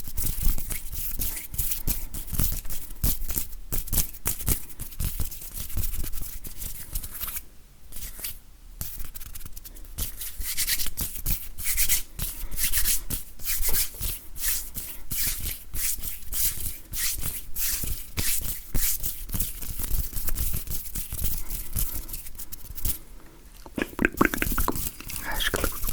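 Hands rubbing and tapping close to the microphone: a fast, dense run of dry rustles and clicks, broken by short pauses about eight seconds in and near the end.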